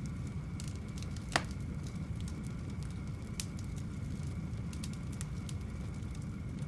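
Wood fire burning in a fireplace: a steady low rumble of flames with scattered small crackles, and one loud sharp pop about a second and a half in.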